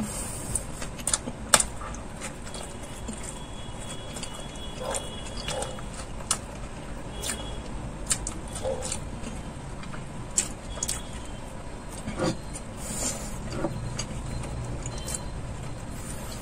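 Close-miked chewing and lip smacking of a mouthful of cheese burger, with irregular wet clicks and smacks and a fresh bite into the soft bun.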